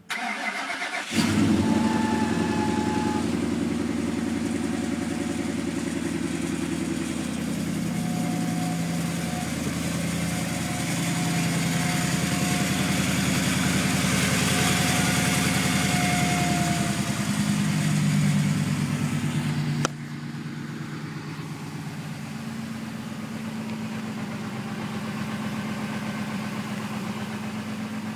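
Car engine starting about a second in, then running. An on-and-off high whistle comes from the belt-driven accessories, of unknown cause: the alternator pulley and the idler pulley/tensioner have already been replaced. The sound steps down to a quieter run about two-thirds of the way through.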